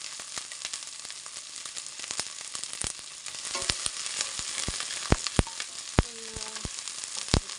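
Onion and garlic frying in butter and olive oil in a pan, a steady sizzle. As it is stirred there are sharp clicks and knocks, more of them and louder from about halfway through.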